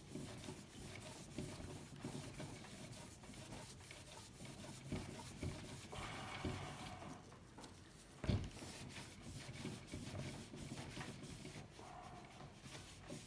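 Hand rubbing and polishing on a steel bicycle frame's worn chrome and paint, in repeated scrubbing strokes, with a single knock about eight seconds in.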